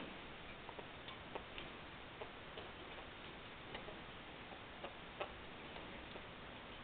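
Faint, irregular ticks and taps, roughly one or two a second, over a steady background hiss.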